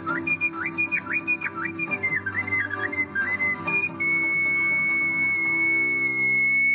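Ocarina playing a birdsong imitation: quick warbling leaps between high notes, then about four seconds in a long held high final note, over a backing accompaniment of sustained lower chords.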